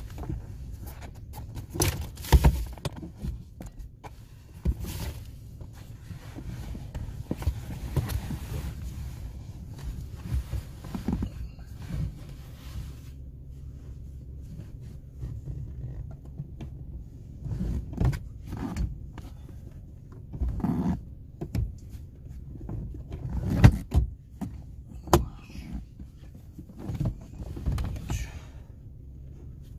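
Irregular thumps, knocks and clicks of things being handled and moved about inside a small car, over a steady low rumble.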